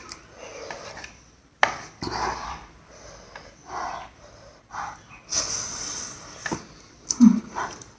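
Close-miked eating sounds of spicy noodles: slurping and chewing, with a long slurp about five and a half seconds in and a few sharp clicks, as of chopsticks on the bowl.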